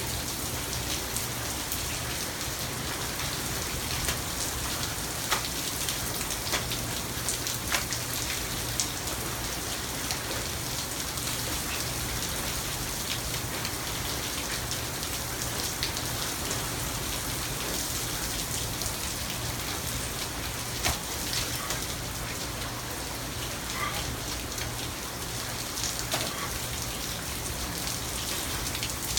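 Steady rain falling, with individual drops ticking sharply close by now and then.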